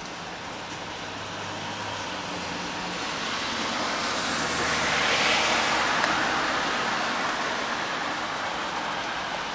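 A car passing on a rain-wet road: tyre hiss swells to a peak about halfway through and then fades, over steady rainfall.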